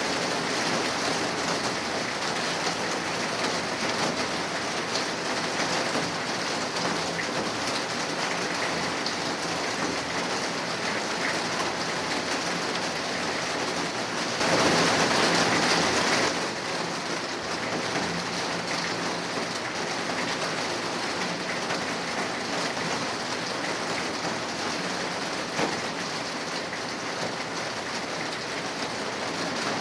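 Rain falling steadily, an even hiss of drops, with a louder stretch of about two seconds about halfway through.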